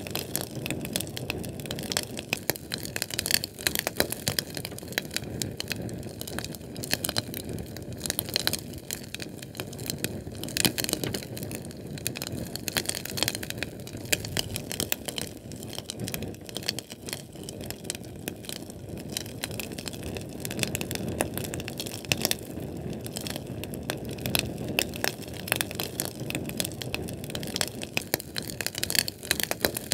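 Flame from a Sterno fuel can burning, crackling continuously with dense small pops and snaps over a low, steady rustle.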